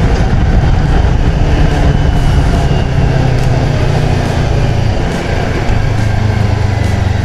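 CFMoto 650MT's parallel-twin engine running steadily while riding, under wind and road noise, with a brief dip in the engine note about five seconds in.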